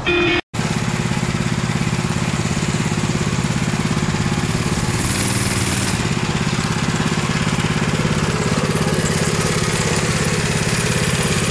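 Minibike's small engine running steadily, after a brief cut-out about half a second in.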